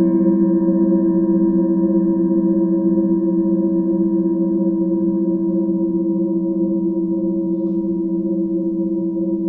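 Singing bowl ringing on after a strike: a deep tone with several overtones above it, fading slowly and evenly.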